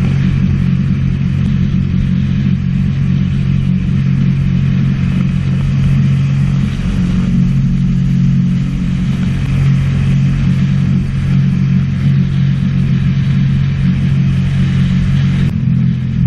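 Sea-Doo personal watercraft engine running steadily at riding speed, with a constant hiss of wind and water.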